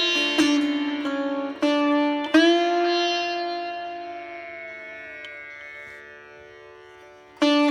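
Background music on a plucked string instrument: a few plucked notes, then one long note that slowly fades, and a new phrase begins near the end.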